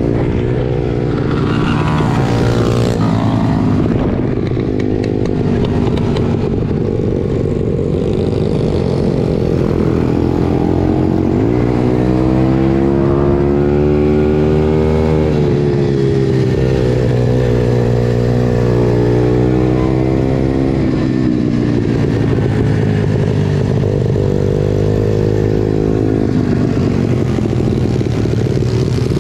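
Small single-cylinder pit bike engine running hard, its pitch rising and falling again and again as the throttle is opened and eased off.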